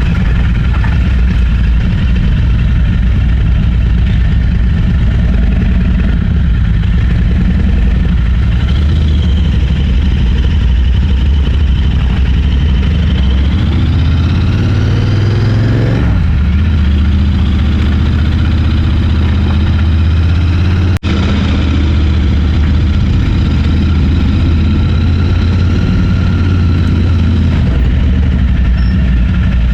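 Motorcycle engine running steadily under way. About halfway through, the engine note climbs and then drops back sharply, as with a gear change. A moment later there is a brief dip in level.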